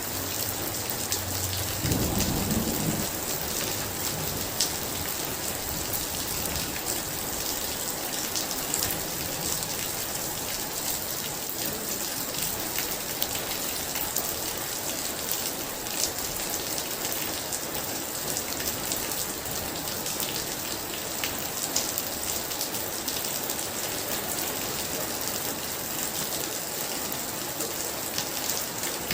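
Heavy rain falling steadily, with a dense patter of drops. A short low rumble of thunder comes about two seconds in.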